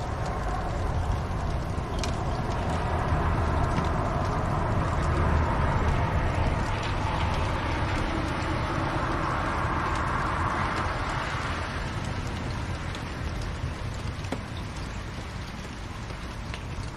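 Fire burning in a fireplace: a steady rumbling hiss with a few sharp crackles and pops, swelling a little in the middle and easing off near the end.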